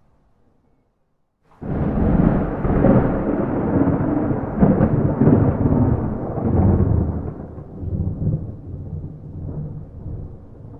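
A thunderclap breaking in suddenly about a second and a half in, then a long rolling rumble with crackles that slowly fades. No rain.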